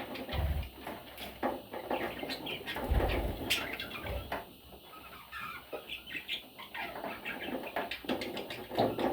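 Pet budgies chirping and chattering in quick, busy bursts, with a few low thumps.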